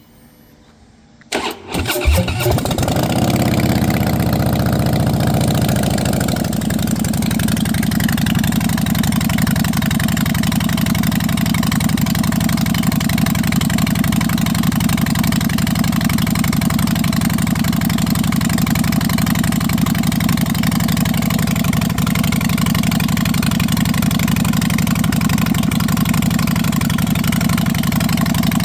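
Harley-Davidson Slim V-twin with aftermarket straight pipes started from cold: the starter cranks briefly about a second in and the engine catches. It runs at a fast idle, then settles about six seconds in to a steady idle.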